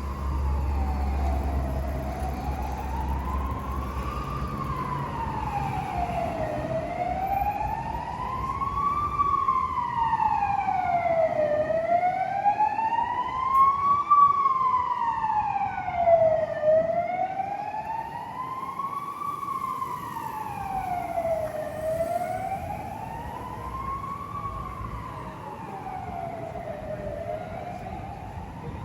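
Emergency vehicle siren wailing in a slow rise and fall, about one cycle every five seconds. It grows louder to the middle and then fades as the vehicle moves away, over low traffic rumble.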